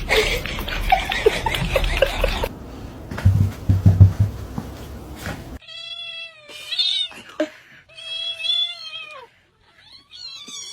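Domestic cat meowing: about halfway through, after a stretch of rustling noise with a few low thumps, it gives a run of drawn-out meows, three long ones and a short one.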